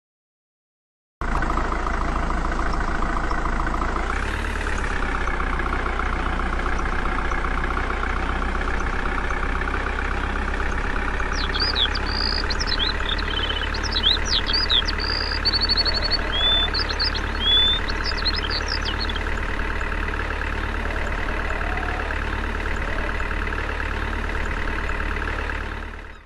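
An engine idling steadily. Its pitch rises briefly about four seconds in, then settles. Short high chirps sound over it in the middle.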